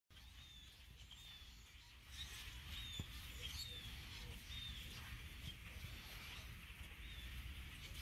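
Birds chirping, many short high calls repeated every half second or so, over a steady low outdoor rumble. A single sharp click about three seconds in.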